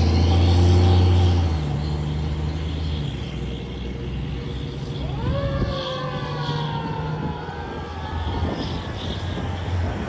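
Fire truck's engine running loud, easing off about a second and a half in; about five seconds in its siren sweeps quickly up in pitch and then slowly winds down, held until near the end.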